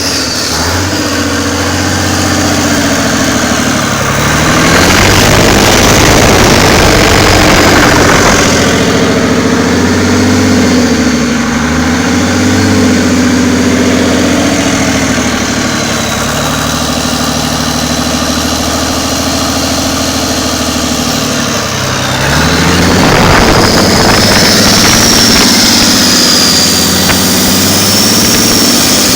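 Deutz BF6M 1015 CP turbocharged V6 diesel engine running, revved up and held for a few seconds about four seconds in, dropping back near idle, then revved up again past twenty seconds. A high whine rises and falls with the revs.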